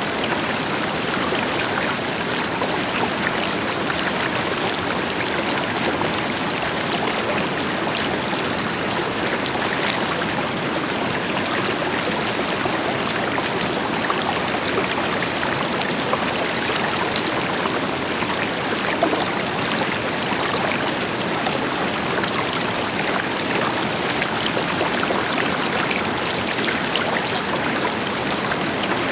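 River water flowing steadily over rocks, with fine splashing and a distant waterfall's deeper rushing beneath it.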